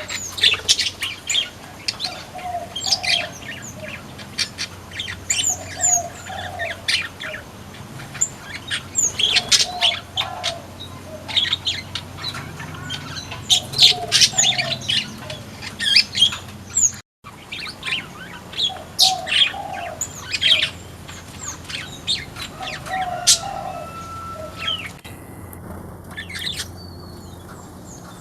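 Many small aviary birds, flamboyan birds among them, chirping busily in short high calls, with a lower call repeating about every three seconds. The sound drops out briefly a little past halfway.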